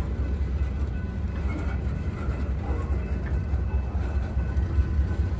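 Covered hopper cars of a freight train rolling slowly past, a steady rumble of wheels on rail with a few faint squealing tones above it.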